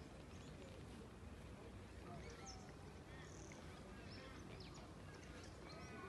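Faint scattered bird chirps and short calls, a few more near the end, over a low steady rumble of wind or background noise.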